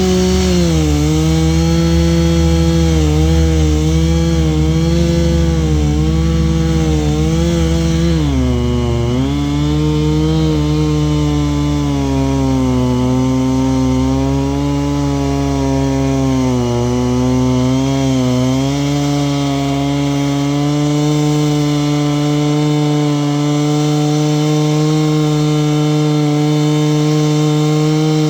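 Chainsaw running at full throttle while cutting wood. Its engine pitch sags sharply about eight seconds in as the chain bites into the cut, wavers, then holds a steady high note through the last part.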